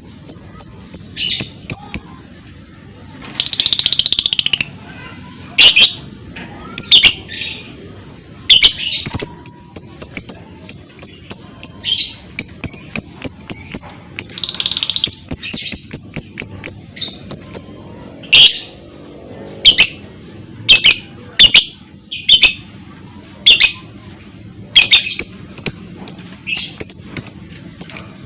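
Lovebird chattering: fast runs of short, high chirps in the trilling 'ngekek' style, broken by sharp single calls and two longer harsh screeches, one about four seconds in and one about fifteen seconds in.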